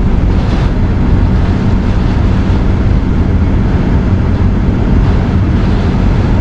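Hurricane-force wind blowing hard over the microphone: a loud, steady rush with heavy low rumble and no letup.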